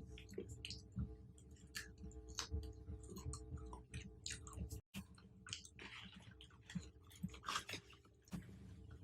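Close-miked chewing of fruit, with wet smacking and clicking mouth sounds in an irregular run; the sound cuts out for a moment about five seconds in.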